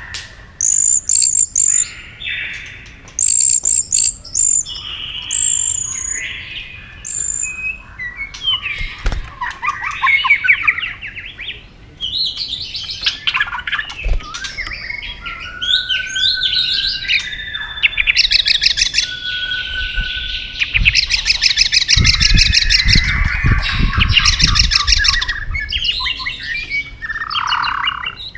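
White-rumped shama singing a varied song: short clear whistled notes and glides, then long fast rattling trills through the second half.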